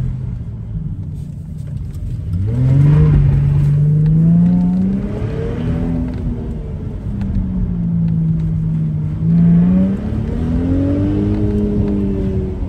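Car engine under hard driving, heard from the cockpit of an open-top car, its pitch climbing and falling as the driver accelerates and lifts between cones. It falls at first, climbs strongly from about two seconds in, settles, gives a short louder rev about three-quarters through, then climbs again.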